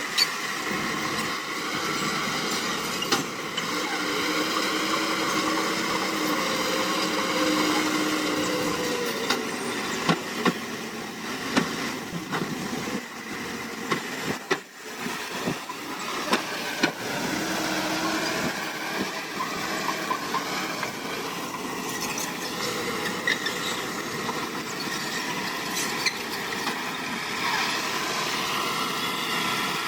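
Diesel engine of heavy earthmoving machinery running steadily, with its pitch rising and holding a few times. Sharp metal clanks and knocks are scattered through it.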